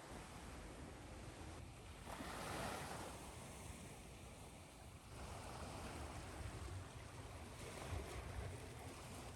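Ocean surf washing in waves: a steady rushing that swells about two seconds in and again past the middle, over a low rumble.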